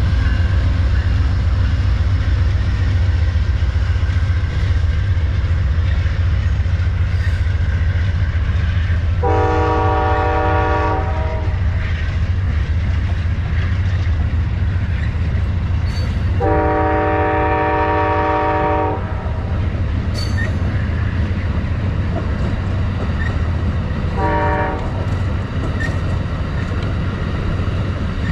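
Amtrak diesel locomotive's multi-chime air horn sounding the grade-crossing signal: a long blast about nine seconds in, a second long blast about sixteen seconds in, then a short blast, over the steady low rumble of the train.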